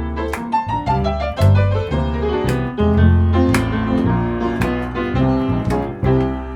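Piano playing a blues introduction over a bass line, chords struck in a steady rhythm above low sustained bass notes.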